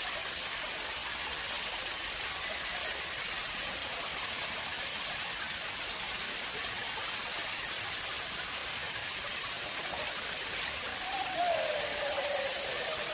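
Water running steadily into an artificial pond: a constant splashing hiss. Near the end a brief falling, wavering tone sounds over it.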